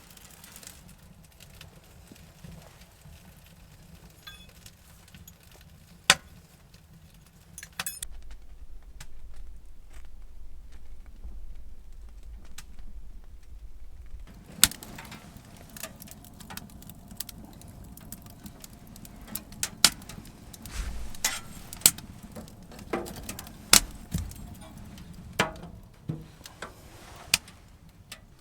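Irregular sharp clicks and light knocks, a few at first and many in the second half, with a low rumble for several seconds in the middle.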